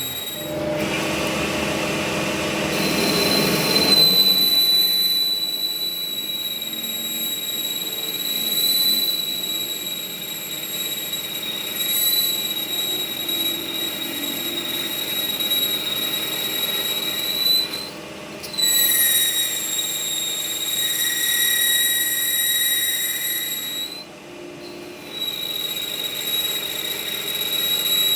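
A metal-working machine gives a steady high-pitched squeal that holds one pitch. It stops briefly twice, once about two-thirds of the way in and again a few seconds later. A rougher, noisier stretch comes in the first few seconds.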